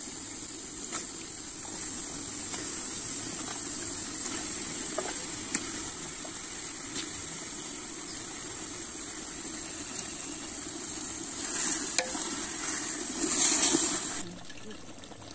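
Biryani masala frying in oil in a large aluminium pot, sizzling steadily with a few light knocks: the masala is cooked through and its oil has separated. The sizzling grows louder from about twelve to fourteen seconds in as raw chicken pieces are stirred into it with a ladle, then drops off.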